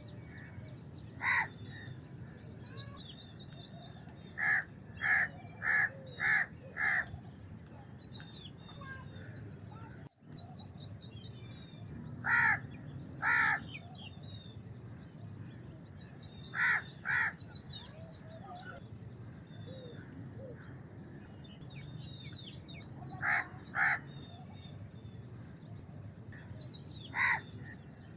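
House crow cawing: about a dozen short, harsh caws, singly and in runs of two to four, over continuous high twittering of small birds and a steady low background noise.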